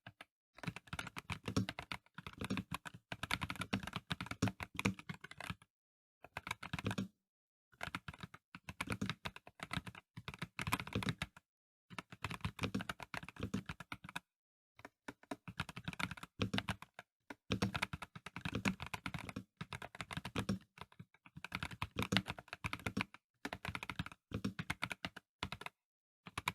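Typing on a Dareu A98 Pro mechanical keyboard with VioletGold Pro linear switches: rapid runs of non-clicky key strokes in bursts of a second or two, broken by brief pauses.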